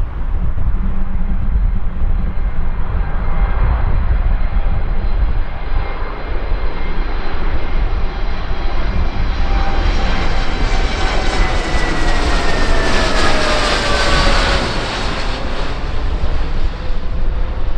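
Passenger aircraft engines passing close by, building up and then sliding down in pitch as the plane goes past, loudest about thirteen seconds in, over a steady low rumble.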